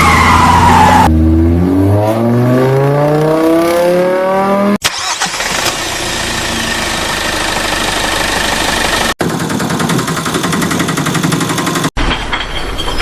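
Spliced vehicle engine sound effects: a falling tone in the first second, then an engine revving up with steadily rising pitch, followed by running-engine noise. Each clip cuts off abruptly, about five, nine and twelve seconds in.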